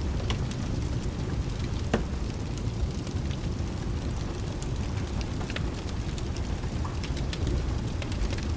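Layered rain and fireplace ambience: steady rain over a deep low rumble, with scattered sharp crackles and pops, one louder about two seconds in.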